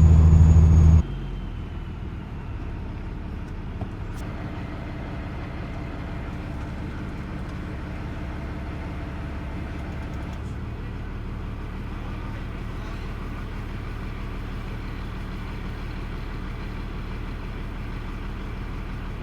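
Heavy diesel truck running: a loud, steady engine hum cuts off abruptly about a second in, leaving a steadier, quieter drone of engine and road.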